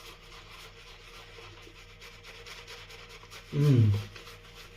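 Synthetic shaving brush rubbing soap lather onto the face, a faint steady scratchy brushing. About three and a half seconds in, a brief low man's hum falls in pitch.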